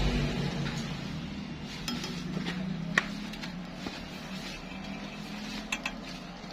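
Light metallic clinks and taps, with one sharper click about three seconds in, over a low hum that slowly fades.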